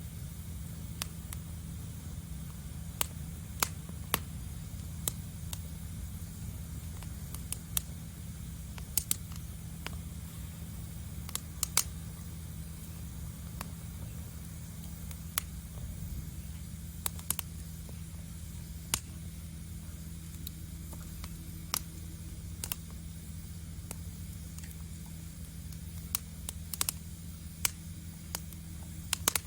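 Wood campfire crackling: sharp, irregular pops and snaps, roughly one a second, over a steady low rumble.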